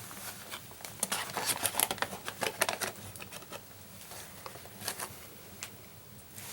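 Crinkling and clicking of a rehydrated meal pouch being handled and eaten from with a spoon: a busy run of short crackles about a second in, thinning out to a few scattered clicks.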